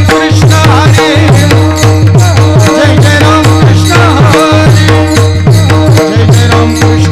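Devotional kirtan accompaniment with no words sung: a harmonium holds steady chords over a low hand drum beating about three strokes a second, each stroke dropping in pitch.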